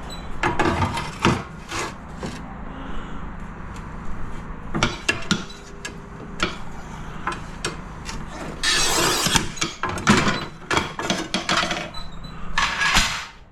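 Ceramic tiles being handled and marked: irregular knocks and clinks as tiles are set down and turned over, with two longer scraping sounds, one about two-thirds of the way in and one near the end.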